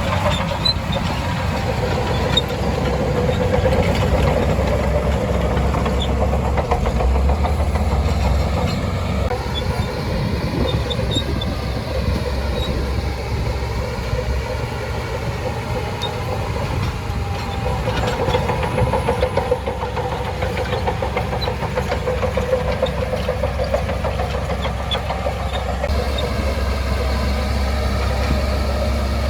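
Shantui DH17C2 bulldozer's diesel engine running under load, its pitch rising and falling as the engine labours, with a few light clicks.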